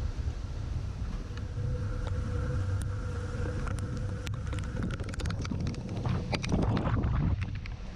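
Wind buffeting the camera microphone as a steady low rumble, with scattered sharp clicks and a burst of louder noise about six seconds in.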